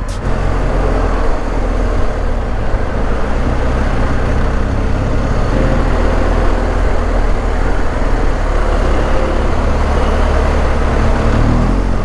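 BMW R1250 GS boxer-twin motorcycle under way, a steady low rumble of engine and road noise.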